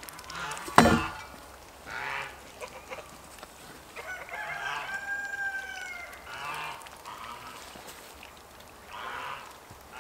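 A rooster crows once, a long call of about two seconds, with chickens clucking in short calls around it. A sharp knock just under a second in is the loudest sound.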